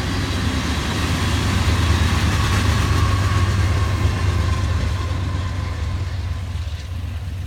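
Train passing on the rails: a steady low diesel locomotive engine rumble with the noise of rolling wheels. It swells a little a couple of seconds in, then slowly fades.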